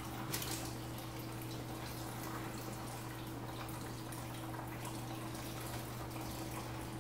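Fry bread dough frying in hot grease in a skillet: a steady sizzling hiss with fine crackle, over a steady low hum.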